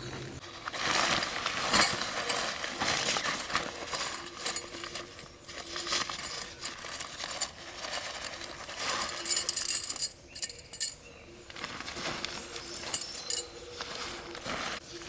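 Irregular metallic clinks and knocks of metal cooking gear or skewers being handled during campfire cooking.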